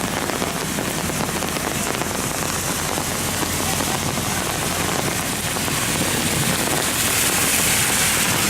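Heavy rain pouring down in a thunderstorm, a steady hiss of rain on surfaces that grows a little louder near the end.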